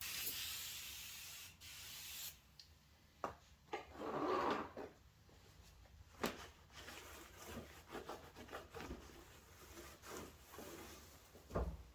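Glass cleaner sprayed in a hiss lasting about two seconds, then rubbing and wiping over the surface as it is cleaned, with a few light knocks.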